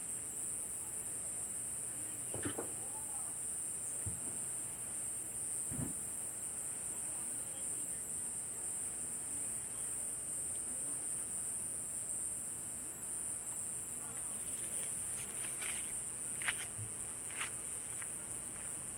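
Steady high-pitched chorus of night insects in summer, unbroken throughout, with a few scattered soft clicks and knocks over it.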